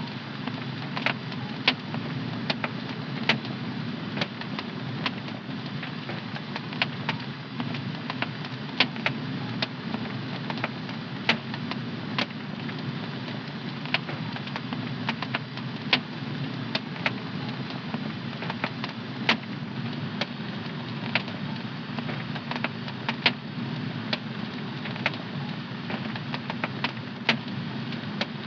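Wood fire burning in a home fireplace, crackling and popping irregularly, several sharp pops a second over a steady low rushing of the flames.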